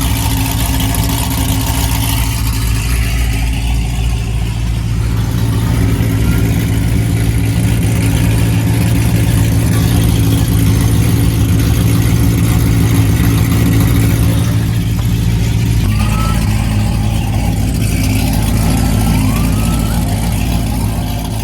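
Toyota Avalon running steadily under way, heard from inside the cabin as it drives, with a constant low engine hum; the engine note changes about 16 seconds in.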